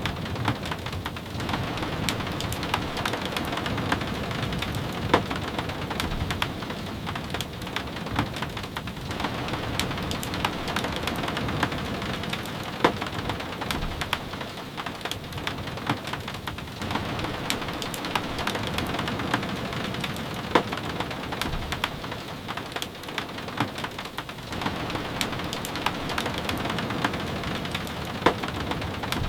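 Steady rain falling, a continuous hiss with many sharp drip taps at irregular moments.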